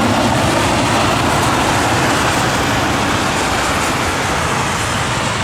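Jet engines of an arriving Airbus A321 airliner, a steady loud rushing noise that eases off slightly.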